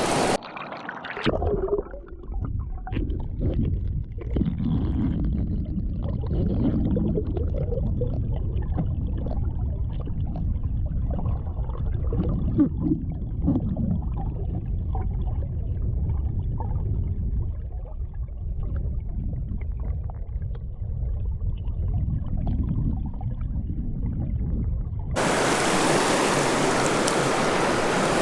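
Creek water heard from underwater: a muffled, low bubbling and gurgling with nothing high-pitched in it. About 25 seconds in it switches abruptly to the open-air hiss of the flowing creek.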